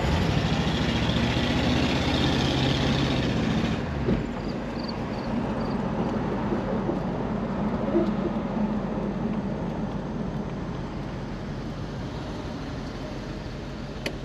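1970 Ford Mustang on the move, its engine running smoothly and making no unusual noises, along with road noise. The steady engine note drops away about four seconds in, and a quieter, even cruising rumble follows and slowly fades.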